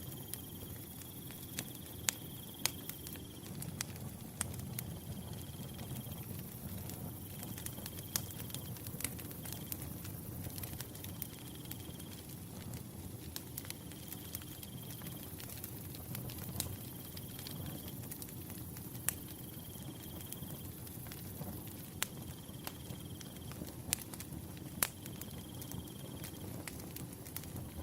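Firewood burning, with sharp crackles and pops scattered over a low steady rush of flame. A cricket trills in short bursts of about a second, roughly every two seconds.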